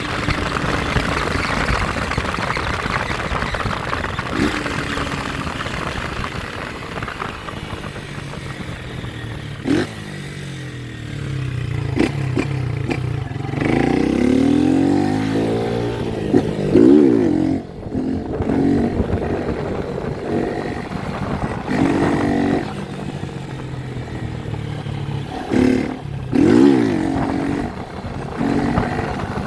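Honda CG 160 Titan motorcycle's single-cylinder engine running and being revved up and down repeatedly, with the pitch swelling around the middle and again near the end. A few sharp knocks and clatters are heard along the way.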